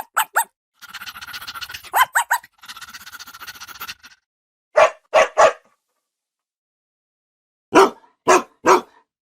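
Dog barking in short sharp barks: a noisy stretch with a few yaps early on, three barks about five seconds in, and four more near the end.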